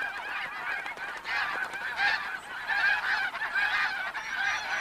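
A large flock of snow geese calling, many short honks overlapping into a continuous clamour.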